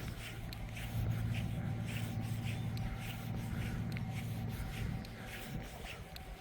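Footsteps at a steady walking pace, about two to three a second, over a low steady hum that swells about a second in and fades near the end.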